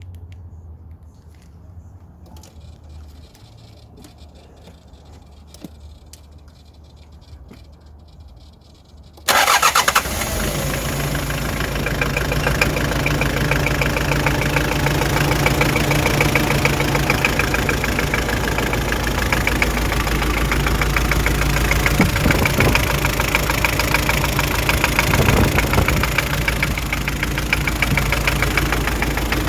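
Quiet for about nine seconds with a few faint clicks, then a Hyundai Terracan's 2.5-litre D4BH four-cylinder turbodiesel starts and runs steadily with a fast, even diesel clatter.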